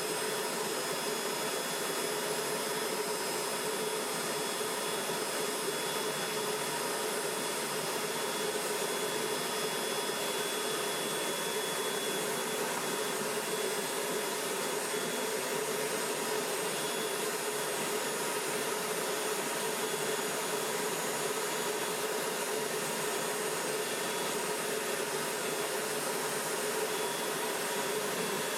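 Forge air blower running steadily: an even rushing hiss with a faint steady hum, with no hammer blows.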